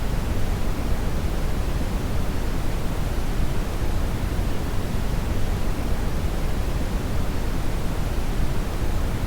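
Steady brown noise (red noise): an even, unchanging rushing hiss weighted heavily toward the low end, with the treble much weaker.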